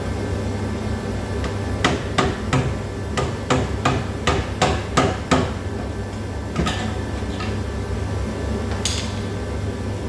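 Hammer blows on car rear-suspension parts during a strip-down: a quick run of about ten strikes, two or three a second, then two more single blows.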